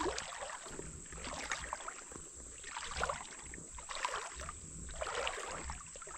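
Shallow river water sloshing and splashing around someone wading, rising and falling in swells about once a second.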